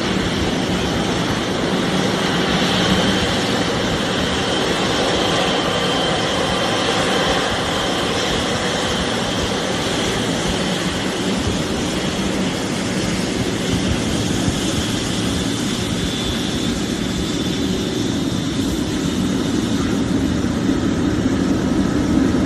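Boeing 737's jet engines running at idle as the airliner taxis in to park: a steady rumble with a high whine that fades in the last few seconds.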